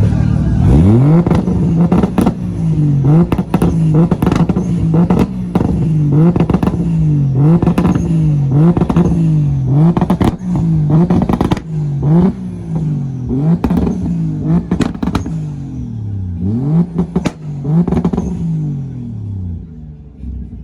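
Car engine revved again and again, its pitch climbing and dropping back about once a second, with sharp cracks between the revs; it dies down near the end.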